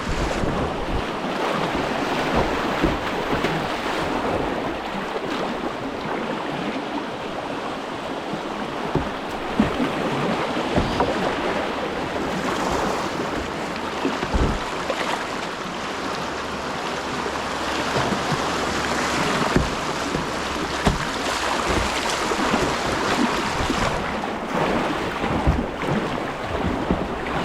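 Whitewater river rushing past a kayak, a steady, loud hiss of moving water with wind buffeting the microphone and scattered short low knocks.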